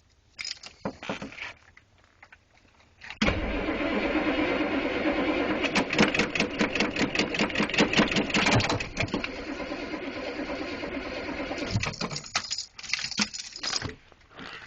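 Starter cranking the M1009 CUCV's 6.2 L diesel V8 on a 12 °F cold start, with an even beat of compression strokes. It begins about three seconds in and stops about nine seconds later without the engine catching.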